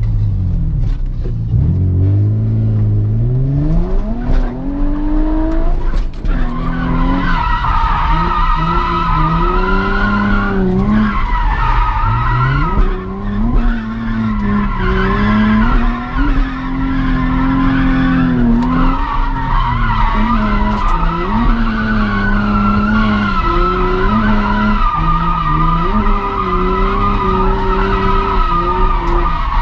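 Drift car's engine revving up and down as the car slides, with the tyres squealing steadily from about six seconds in.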